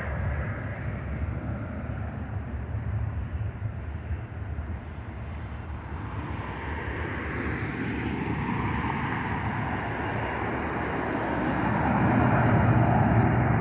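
Boeing 737-900ER's CFM56-7B turbofan engines at takeoff power, a steady rumble that eases off in the middle and swells louder near the end.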